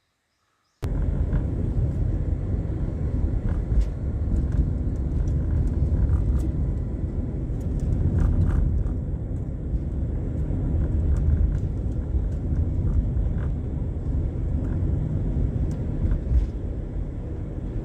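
Steady low rumble of a vehicle running, with a few faint clicks over it; it starts abruptly about a second in.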